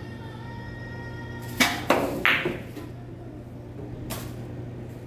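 Carom billiard balls on a three-cushion table: a sharp click of a cue shot about a second and a half in, then two more clicks of balls striking within the next second, and another click about four seconds in.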